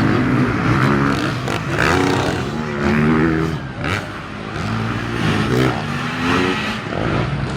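Motocross dirt bike engines revving, their pitch rising and falling over and over as the bikes open and close the throttle, with several engines overlapping.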